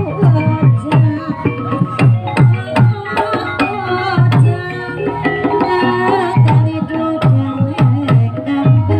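Javanese gamelan music: rapid hand-drum strokes from the kendang, each dropping in pitch, over steady ringing tones from the bronze metallophones and gongs.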